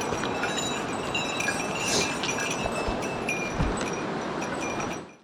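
Steady rush of a mountain stream, with scattered high chiming clinks. It fades out near the end.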